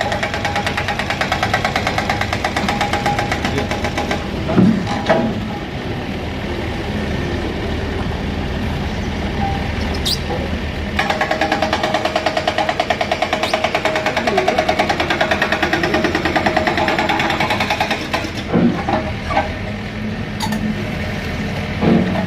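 An engine or motor running with a fast, steady beat, growing louder about halfway through and easing back a few seconds before the end.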